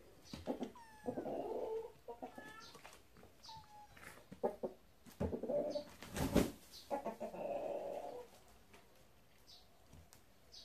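Bird calls: a few short chirps and clucking calls, with a single loud knock about six seconds in.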